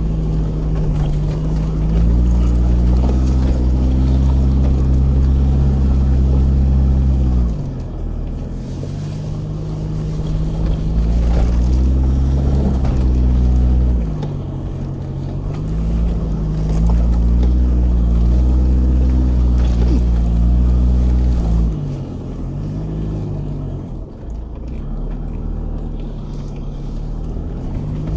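Vehicle engine pulling hard up a mountain road. Its revs rise and drop back several times, roughly every five to eight seconds, under a heavy low rumble.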